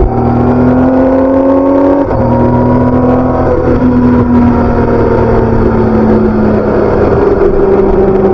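BMW K1600B's inline-six engine and stock exhaust pulling under acceleration, the pitch rising and then dropping sharply at upshifts about two seconds in and again around three and a half seconds. After that the engine note slowly falls.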